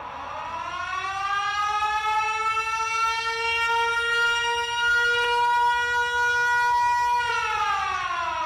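A loud siren wail that rises in pitch, holds one steady note for several seconds, then falls away near the end.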